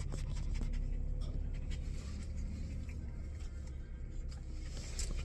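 A dog panting fast and steadily, a rapid train of short scratchy breaths: it is worn out after hard play and exercise.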